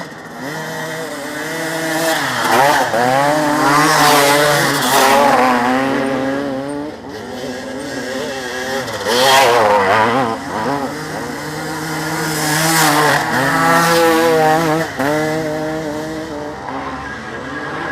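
Motocross motorcycle engines revving hard, the pitch climbing and dropping again and again through the gears, louder and quieter in several swells as bikes pass.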